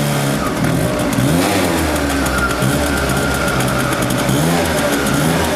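Small two-stroke moped engine revved up and down over and over, its pitch rising and falling about once a second.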